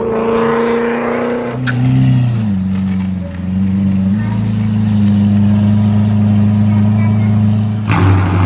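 Steady engine-like drone that drops in pitch in a couple of steps about two seconds in, then holds one pitch until a sudden change near the end.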